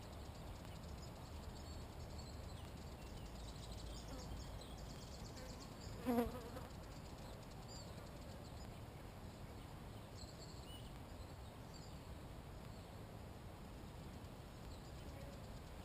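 Insects buzzing near the microphone over a low outdoor rumble, with one short, louder buzz about six seconds in. Faint, distant bird chirps and a brief high trill sound in the background.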